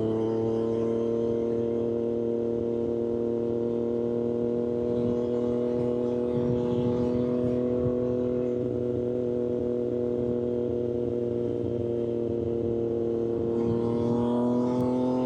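Triumph Street Triple 765 RS inline-three engine running through an SC-Project aftermarket exhaust while the bike cruises at steady revs. The engine note holds nearly level, sags slightly midway and climbs a little near the end, over wind and road rush.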